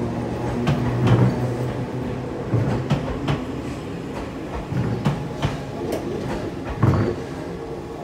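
Enoden electric train moving along the station platform: a steady low running hum with wheels knocking over rail joints every half second or so, slowly fading toward the end.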